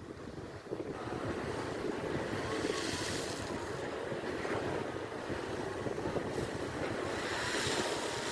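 Storm surf on the Black Sea breaking and rushing, with strong gusts of wind buffeting the microphone. The hiss swells about three seconds in and again near the end.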